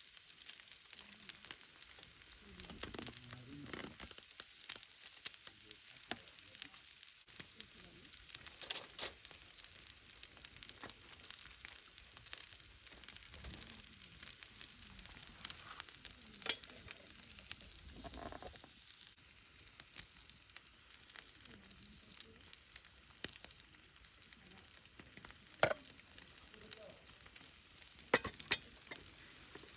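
Fire burning in a fire pit, crackling with scattered sharp pops over a steady sizzling hiss.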